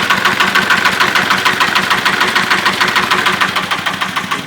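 Shifeng 244B tractor's diesel engine running steadily with a rapid, even clatter, shortly after a cold start at about −3 °C on summer diesel.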